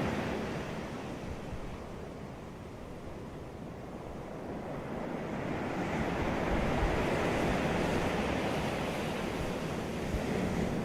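Sea waves breaking on a beach: the surf eases off in the first few seconds, then a wave builds and washes in from about five seconds on, with wind rumbling on the microphone.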